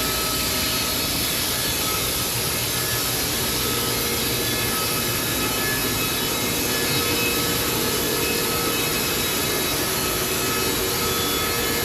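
Band sawmill running steadily, its engine under load as the blade cuts lengthwise through a log.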